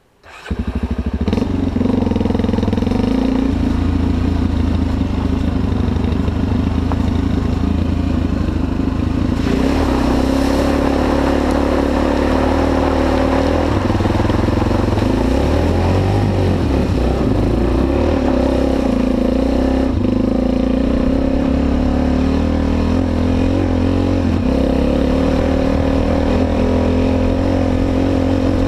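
Honda XR 250 Tornado's single-cylinder four-stroke engine running, coming in sharply about half a second in. Its pitch rises and falls with the throttle, notably around ten seconds in and again in the middle.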